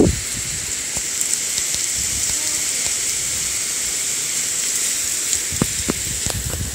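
Heavy typhoon rain falling steadily, an even hiss, with a few short taps near the end.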